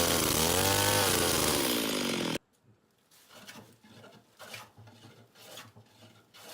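A loud, steady sound with a wavering pitch cuts off abruptly about two seconds in. Quiet, rhythmic scraping strokes on wood follow, about two a second.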